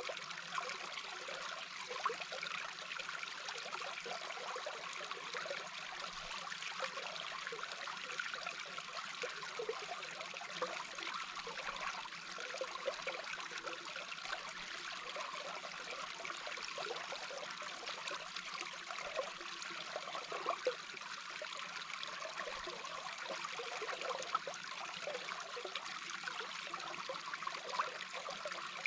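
Small brook heard underwater through a hydrophone: a steady rush of flowing water with many short, irregular bubbling pops.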